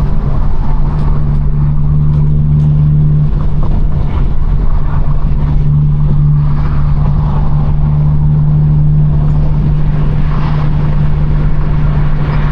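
Straight-piped BMW 428i turbocharged four-cylinder exhaust droning at a steady cruise, holding one pitch with no revving. Road and wind noise run underneath.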